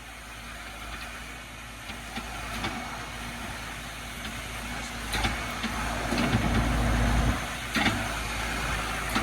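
A vehicle engine idling steadily under an even hiss of rain, with a deeper low rumble swelling for about two seconds in the second half and a couple of sharp knocks.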